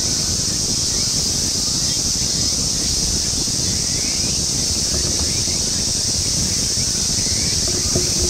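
Outdoor ambience: wind rumbling on the microphone under a steady high-pitched hiss, with a few faint short chirps. A small knock comes near the end.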